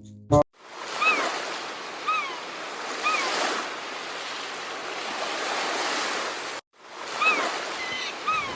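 Heavy rain pouring down as a steady, dense hiss. Short chirping calls come about once a second over it. The sound cuts out briefly about two-thirds of the way through, then the rain and chirps resume.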